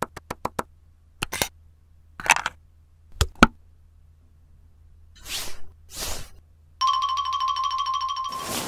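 Dubbed-in stop-motion sound effects. A run of quick clicks comes first, then two sharp clacks about three seconds in and two short whooshes. Near the end a steady electronic beep holds for nearly two seconds.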